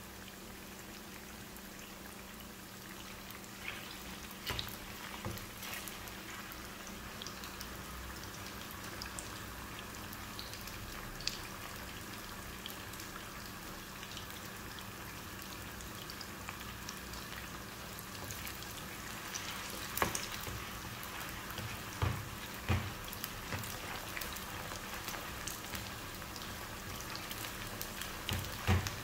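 Cornflour-marinated chicken pieces deep-frying in oil in a frying pan over high flame: a steady sizzle with scattered pops and crackles. Near the end a spatula knocks against the pan a few times as the pieces are stirred.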